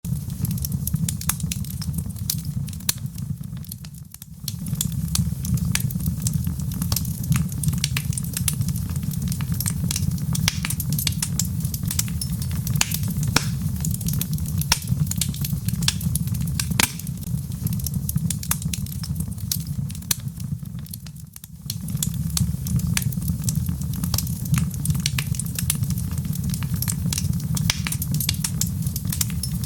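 Wood fire burning in a fireplace: dense, irregular crackles and pops of the logs over a steady low rumble of the flames. The sound briefly falls away twice, about four seconds in and again about twenty seconds in.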